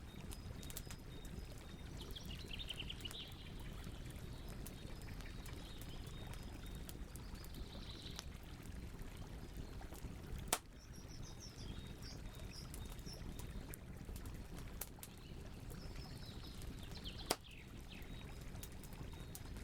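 Campfire burning with a steady low rush and scattered crackling, with two sharp pops, one about ten seconds in and one near the end. Birds chirp in the background several times.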